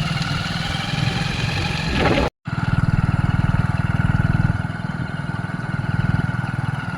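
Small engine running steadily with a rapid, even low pulsing, as heard riding along. The sound cuts out completely for a moment about two seconds in.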